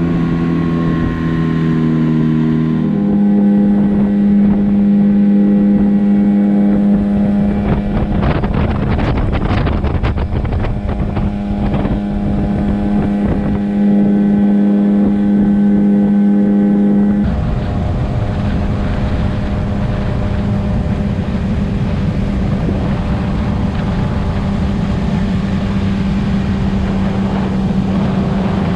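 Motorboat engine running fast as the boat planes, a steady hum that steps up in pitch about three seconds in, over rushing water and wind on the microphone. About halfway through, the sound changes abruptly and the hum becomes less distinct against the rush of noise.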